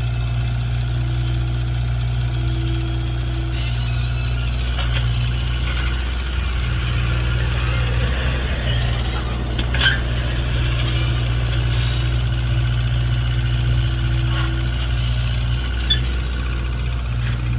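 Mini Hitachi excavator's diesel engine running steadily while it works, with two short knocks, one about ten seconds in and one near the end.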